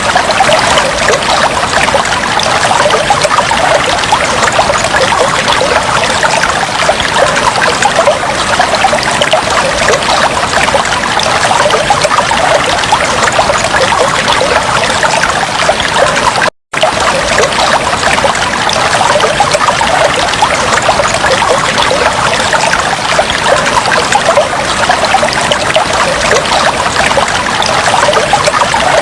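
Aquarium water trickling steadily, a dense splashing and bubbling. It cuts out for an instant about two-thirds of the way through.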